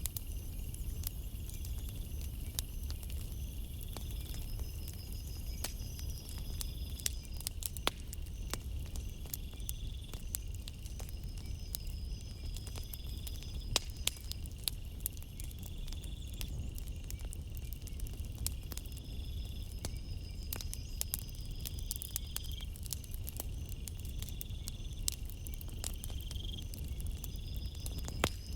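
Campfire crackling with scattered sharp pops over a low steady rumble, while crickets chirp in repeated pulsing trills.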